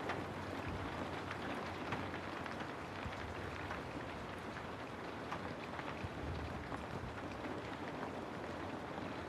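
Steady rain falling on a house, an even hiss with scattered drop ticks.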